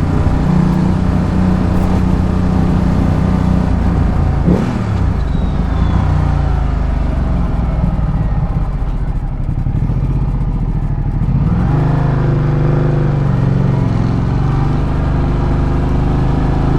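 Ducati Multistrada 1200's L-twin engine running under way. About four and a half seconds in its note drops and stays lower for several seconds, then picks up again just past the middle.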